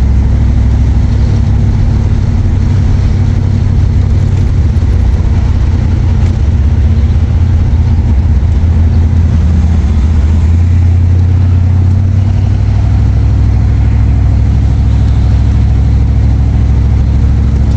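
Car engine and road noise heard while driving, a loud steady low drone whose engine note shifts about eleven seconds in.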